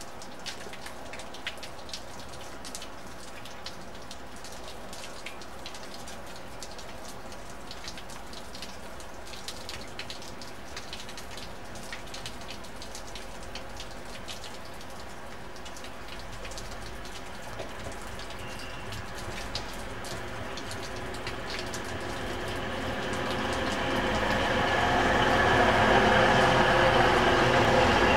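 Class 185 Desiro diesel multiple unit approaching and running past, its engine and transmission sound growing steadily louder over the last several seconds and loudest as the carriages go by close. Earlier, under a faint distant engine note, a light scatter of small clicks.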